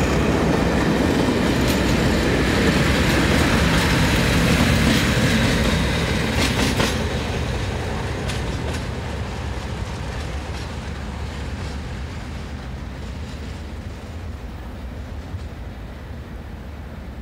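A departing diesel-hauled passenger train, its trailing Class 37 locomotive (English Electric diesel) passing and pulling away, with a few wheel clicks over rail joints. The rumble is loudest for the first six seconds or so, then fades steadily as the train draws away.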